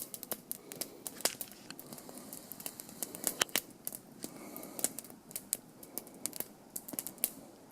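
Small campfire of dry wood crackling, with irregular sharp pops and snaps.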